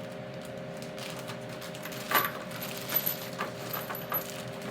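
Small steel bolts clinking and rattling as one is taken from a bag, a few sharp metallic clicks with the loudest about two seconds in, over a steady low hum.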